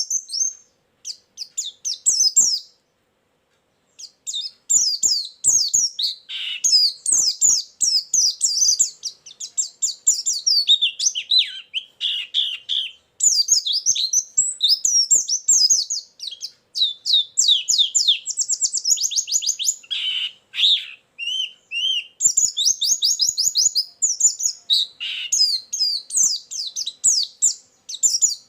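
White-eye singing a rapid, high twittering song: long runs of quick chirping notes, broken by a short pause about three seconds in.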